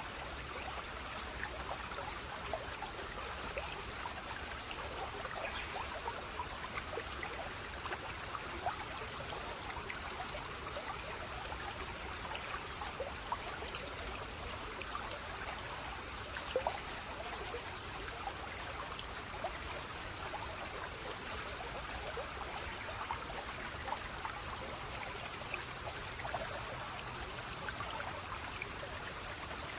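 Running water trickling and splashing steadily, like a small stream, with tiny drips and plinks throughout. There is one slightly louder splash a little past halfway.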